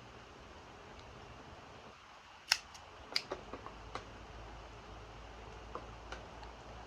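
A few scattered sharp clicks and taps over a faint steady hiss, the loudest about two and a half seconds in, with a quick cluster of smaller ones just after it.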